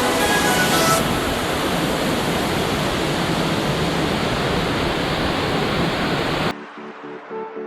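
Waterfall rushing in a steady, loud roar of falling water, with the last of the background music fading out in the first second. About six and a half seconds in the water sound cuts off suddenly and quiet background music begins.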